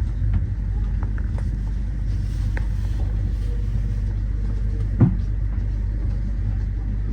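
Commuter train running, heard from inside the carriage: a steady low rumble of the wheels on the rails, with one short knock about five seconds in.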